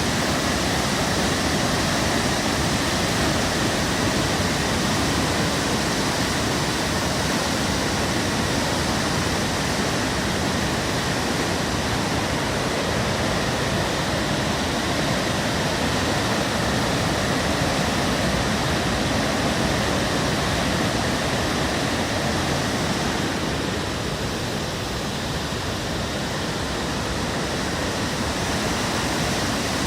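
Katsura River in flood after a typhoon, its swollen water rushing steadily through the gorge, its level somewhat down from the peak. The sound dips slightly about two-thirds of the way through.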